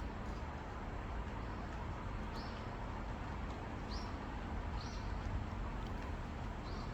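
Small bird chirping four times, each a short high rising note, over a steady outdoor hum and rumble.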